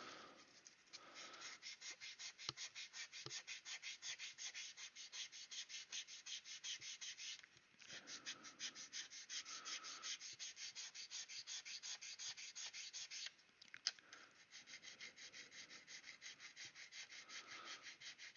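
Hand sanding of a plastic scale-model wing root with a sanding stick or abrasive, in quick, even back-and-forth strokes, pausing briefly twice.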